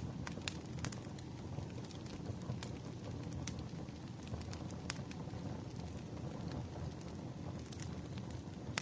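Wood fire crackling: a steady low rumble of the burning logs with irregular sharp pops and snaps, several a second at times.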